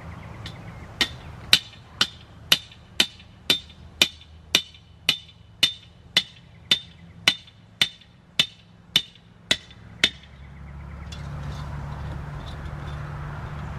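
A hammer driving a nail: about eighteen steady blows, two a second, each with a ringing metallic ping, stopping about ten seconds in. A low steady rumble follows near the end.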